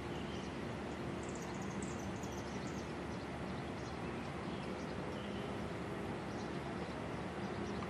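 Outdoor background of a steady low hum, like distant traffic or machinery. About a second in, a bird sings a short run of high, falling notes.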